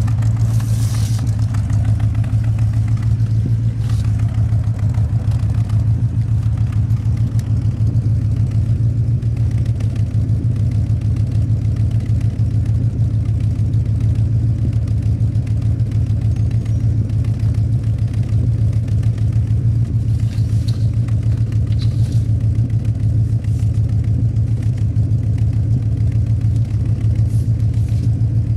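1967 Cadillac Eldorado's 429 cubic-inch (7-litre) V8 idling steadily through a true dual exhaust with two mufflers: an even, low exhaust rumble.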